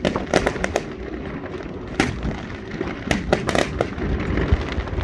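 Fireworks display going off: a string of sharp bangs and crackles, several in quick succession about half a second in, another about two seconds in and a dense cluster a little after three seconds, over a steady low rumble of booms.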